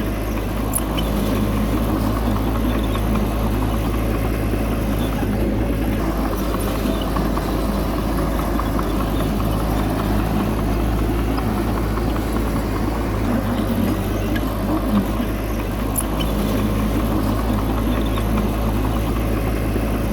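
Heavy earthmoving machine's diesel engine running steadily at a constant pitch.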